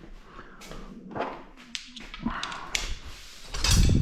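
Scattered metal clicks and taps of a socket and tools, then a short loud burst from a small impact wrench hammering on an engine cylinder head bolt near the end.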